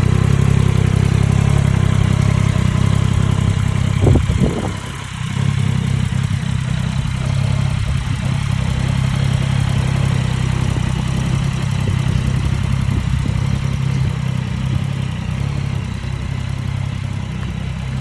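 Yamaha Tracer 9 GT's 890 cc inline three-cylinder engine idling steadily through its stock exhaust, with one short blip of the throttle about four seconds in.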